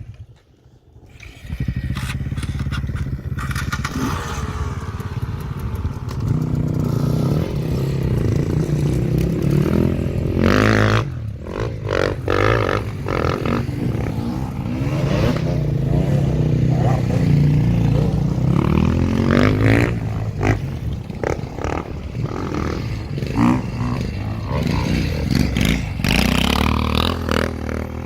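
Motocross dirt bike engine noise, revving up and down again and again as the bikes accelerate and back off. It drops away briefly about a second in, then builds back.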